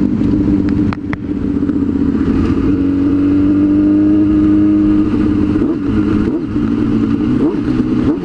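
Sport motorcycle engine running under way. It dips briefly about a second in, then the engine note rises gently from about three seconds in as the bike pulls ahead.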